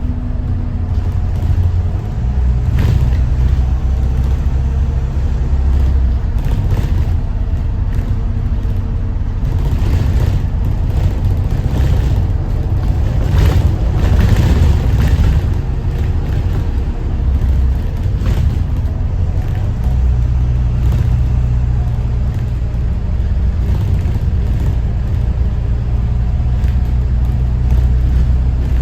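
Thomas Saf-T-Liner C2 school bus's Detroit diesel engine running with the bus under way: a steady low drone whose engine note shifts now and then, with road noise and a louder rush of noise about halfway through.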